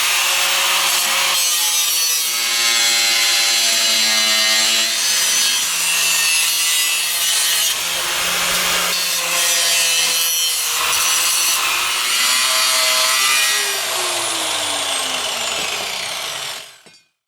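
A power tool cutting or grinding metal: a harsh, continuous rasping with wavering high tones. About 13 seconds in it is switched off and its motor winds down, falling in pitch.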